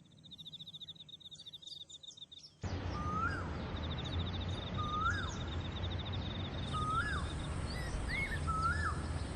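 Wild birds and insects calling. A fast, high, evenly ticking trill plays first; about two and a half seconds in, a louder noisy background cuts in, with a bird's whistled call that rises and falls repeated about every one and a half seconds while the trill carries on. A steady high whine joins about two-thirds of the way through.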